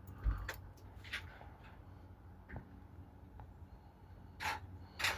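A few scattered clicks and knocks over a faint low hum, with no cranking: a Volvo D13 truck engine that does not turn over when the key is turned.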